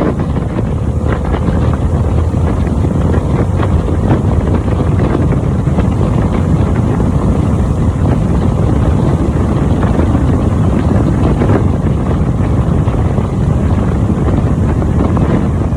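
Harley-Davidson motorcycle engine running steadily while riding, with heavy wind noise buffeting the microphone.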